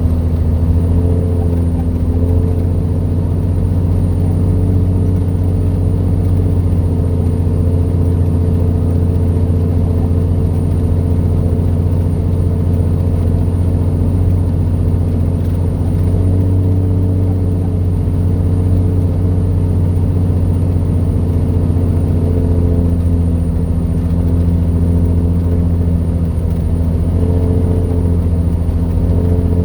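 Heavy truck's diesel engine running steadily under load, a low, even drone heard from inside the cab.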